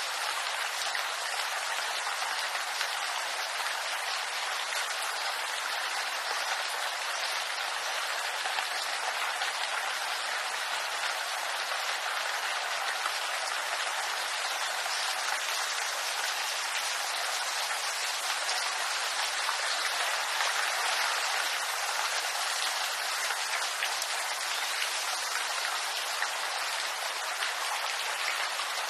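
Steady rain falling on bamboo leaves: a dense, even hiss of countless fine drops.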